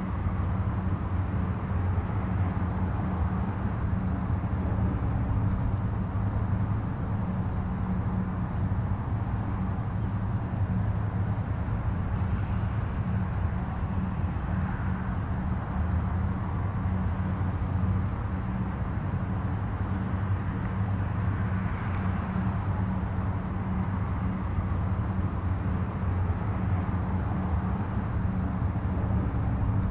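Distant highway traffic: a steady, low rumble of tyres and engines, with a few gentle swells as individual vehicles pass. A faint, high, pulsing sound runs along with it.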